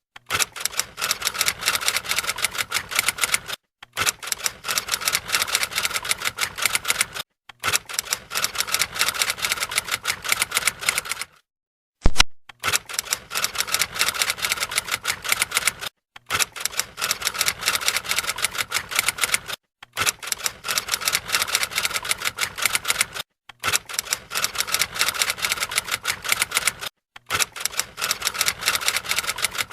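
Typing sound: rapid key clicks in repeated stretches of about three and a half seconds, each broken off by a brief silence, with one sharper, louder click about twelve seconds in.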